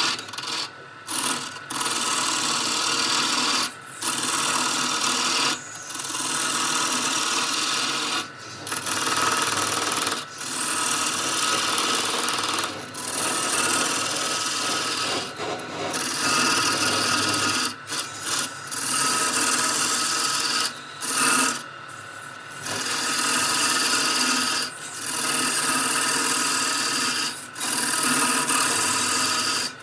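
A wood lathe turning a workpiece while a cutting tool scrapes into the spinning wood, a loud rasping noise that breaks off briefly every couple of seconds.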